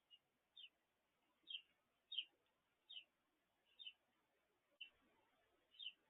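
A small bird chirping faintly, short high notes repeated about once a second.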